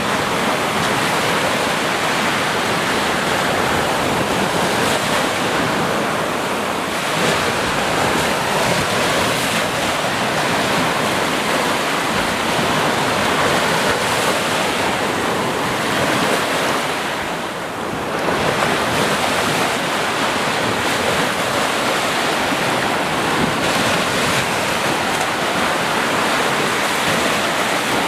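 Sea surf: waves breaking and washing in a continuous rush, easing off briefly about two-thirds of the way through before the next wave swells in.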